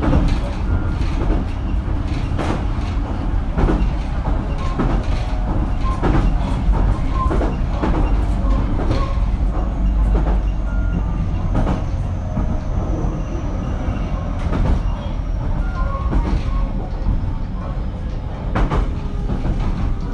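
Running noise of a JR Kyushu BEC819-series battery-electric train (motor car KuMoHa BEC819-3) underway: a steady low rumble of wheels on rail, with scattered clicks and knocks from the track, and a faint high tone that falls slowly around the middle.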